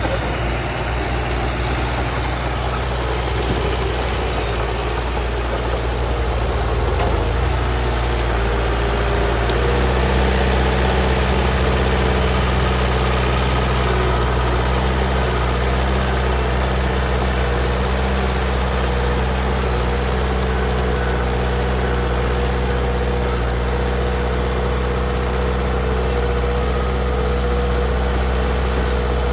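Heavy diesel engine of earth-moving equipment running steadily; around a third of the way in its note shifts and it gets a little louder.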